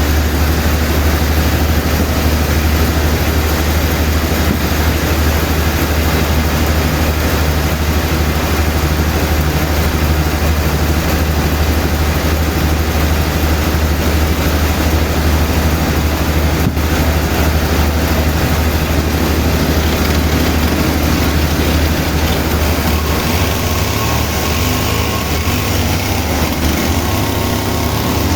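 Sawmill machinery engine running steadily with a loud, deep hum. A few seconds before the end, a wavering, rising pitch comes in over it.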